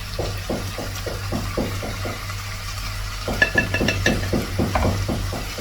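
A spoon stirring chicken pieces in a frying pot, knocking and scraping against the pot over a sizzle. The strokes quicken, with small ringing clinks, from about three seconds in. A steady low hum runs underneath.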